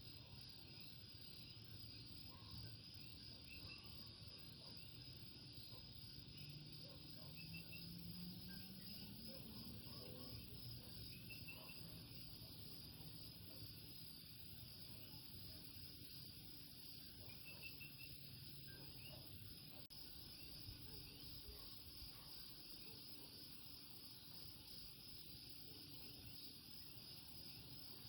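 Common coquí frogs calling their short two-note "co-quí" every few seconds, faint, over a steady high-pitched insect chorus. A faint low hum rises briefly about eight seconds in.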